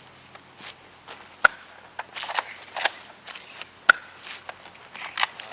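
Two sharp Nerf blaster shots about two and a half seconds apart, with scuffling footsteps and rustling movement between them.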